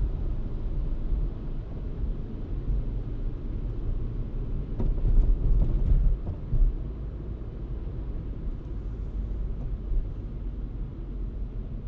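Low, steady rumble of a car driving, with road and tyre noise. It grows louder about five seconds in, and there are a few faint clicks before it eases about six and a half seconds in.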